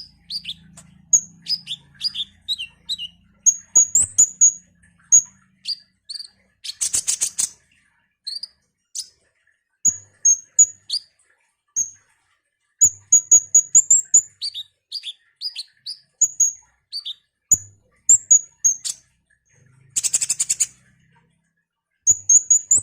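Sunbird (kolibri) song on a tutor recording for songbirds: quick runs of thin, very high chirps and short down-slurred notes, broken twice by a rapid buzzy trill about a second long, once about seven seconds in and again near twenty seconds.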